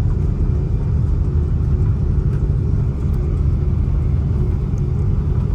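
Cabin noise of an Airbus A330-300 airliner: a steady, even, low rumble of engines and airflow.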